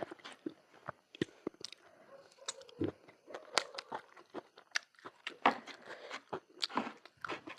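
A person eating close to the microphone: chewing and biting food, with irregular sharp mouth clicks and crunches several times a second.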